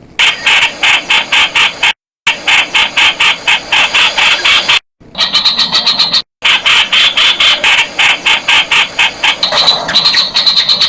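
Streak-eared bulbul calling: a fast run of sharp repeated notes, about six to seven a second, broken by sudden short silences about two, five and six seconds in.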